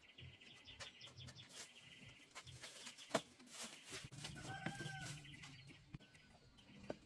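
Faint, scattered light clicks and knocks, with a short bird-like call about halfway through.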